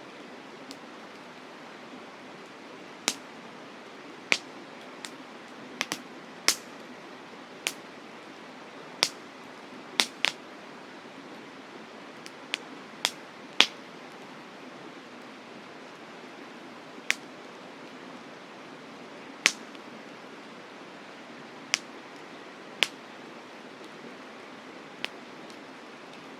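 Wood campfire crackling: sharp, irregular pops and snaps, some in quick pairs, over a steady rushing hiss.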